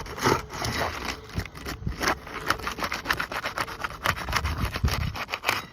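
Flat bar scraping and prying under asphalt roof shingles, an irregular run of scrapes and crackles as the shingles are worked free.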